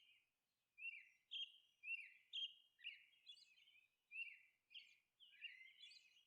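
Faint bird chirps: a run of short notes, each falling in pitch, repeating about twice a second.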